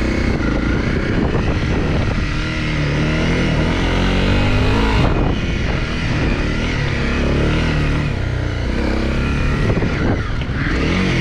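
Honda CRF250 Rally's single-cylinder four-stroke engine running under throttle on a dirt track, its pitch rising and falling as the rider opens and closes the throttle, with a rising rev near the end.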